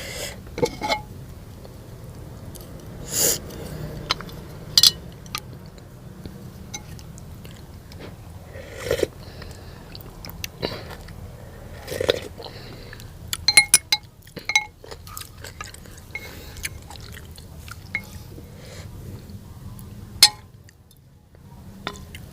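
Close-up eating sounds of noodle soup: chewing and biting, with scattered short clicks and occasional clinks of utensils against a bowl.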